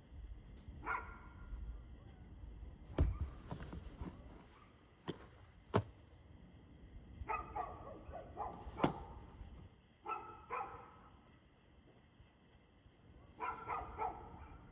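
A dog barking in scattered bursts: one bark about a second in, then clusters of several quick barks in the middle and near the end. Several sharp clicks or knocks fall between the barks and are the loudest sounds.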